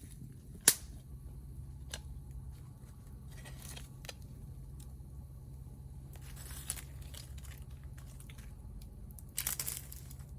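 Wood fire crackling, with one sharp pop about a second in and a short flurry of crackles near the end over a steady low rumble of burning.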